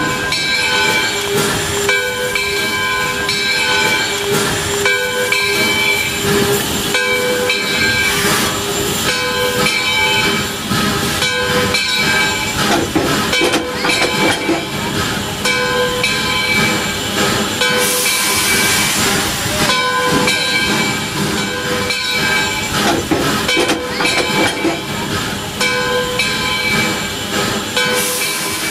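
Railway train running, with rapid clicking and knocking, steady whistle-like tones that come and go, and a burst of hiss about eighteen seconds in.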